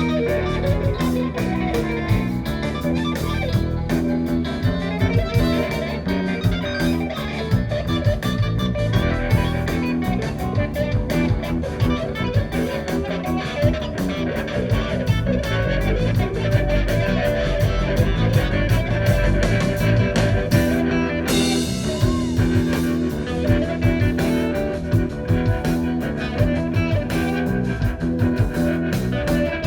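Live rock band playing an instrumental jam: electric guitar leading over bass and drum kit.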